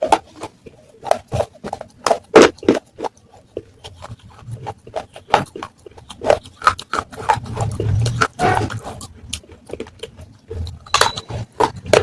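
Pieces of baked clay pot (matka) being bitten and chewed, making sharp, irregular crunches, several a second at times.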